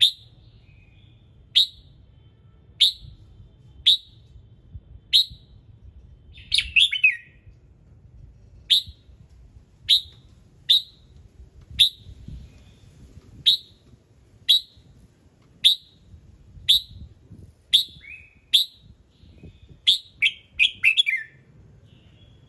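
Red-whiskered bulbul calling: short, sharp, high notes repeated roughly once a second, broken twice by a longer tumbling song phrase, about seven seconds in and near the end.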